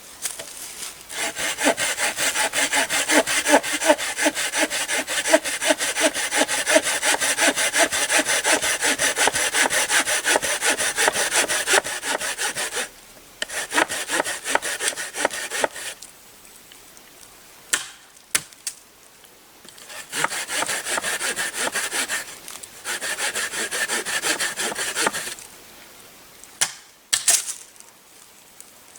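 Hand saw cutting wood, fast even back-and-forth strokes in several runs, the longest about twelve seconds, with short pauses and a few knocks between them.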